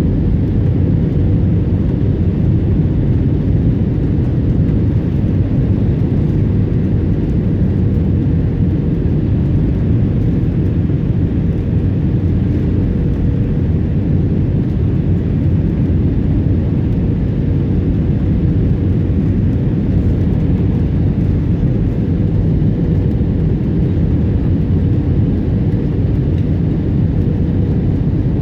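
Steady cabin noise inside an Airbus A320 in flight on the landing approach: the engines and airflow make an even roar with a steady hum over it.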